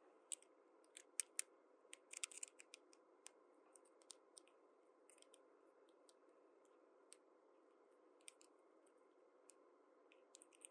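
Small plastic toy pieces of a miniature playset being handled: light, scattered clicks and taps, a quick cluster about two seconds in, then fewer and softer ones.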